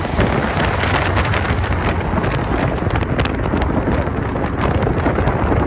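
Heavy wind buffeting on the microphone, a loud continuous rushing with crackles, over the sound of vehicles.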